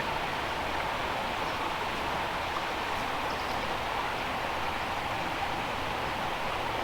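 Fast-flowing brook running over rocks: a steady, even rush of water.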